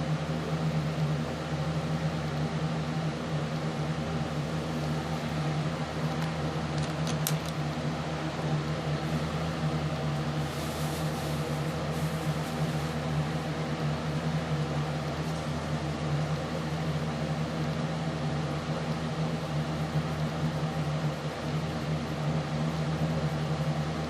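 Steady low mechanical hum with an even hiss, unchanging throughout. A few faint ticks come about seven seconds in, and a soft brief rustle between about ten and thirteen seconds.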